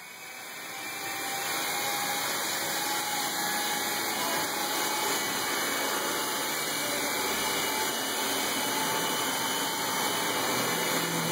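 Candide Lightning toy helicopter's small electric motor and rotor blades whirring, building up over the first second or so and then running steadily.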